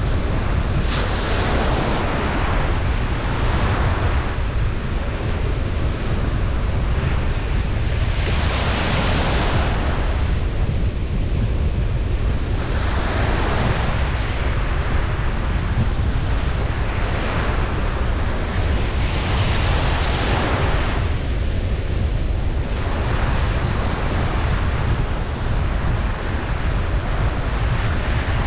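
Ocean surf on a beach, waves swelling and washing in every few seconds over a steady low rumble.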